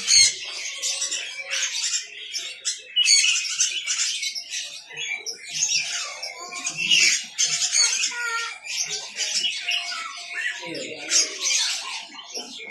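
Many caged lovebirds chattering and squawking at once, a dense, continuous high-pitched chorus of overlapping calls.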